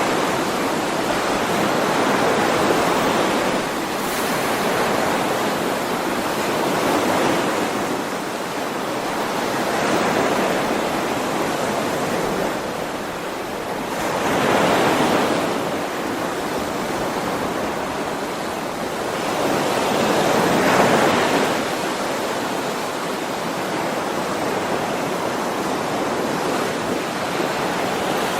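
Ocean waves washing onto a shore: a steady rush of surf that swells and fades as each wave comes in, every few seconds.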